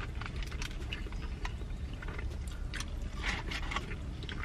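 People eating up close: chewing with many irregular wet mouth clicks and smacks, over a steady low hum.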